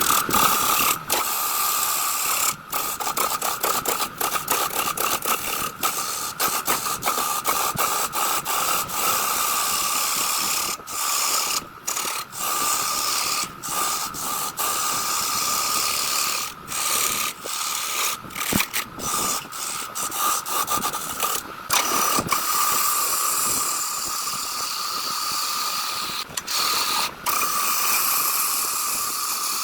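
Electric power tool running on wood with a steady whine and a hiss, broken by many brief gaps.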